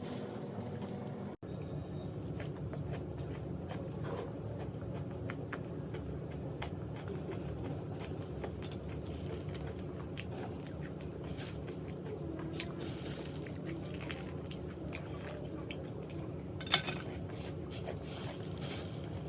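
A person chewing and crunching crisp food close to the microphone, with many small sharp crunches and one much louder crunch or click near the end.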